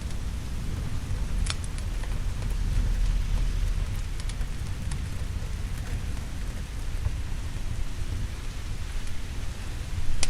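Steady heavy rain with a low rolling rumble of thunder that swells about two seconds in, and a few sharp pops of a crackling wood fire.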